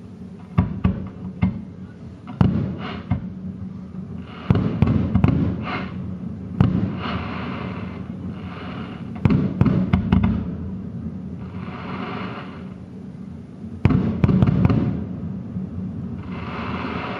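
Aerial fireworks shells bursting: a series of sharp bangs, several in quick clusters, with stretches of hissing in between.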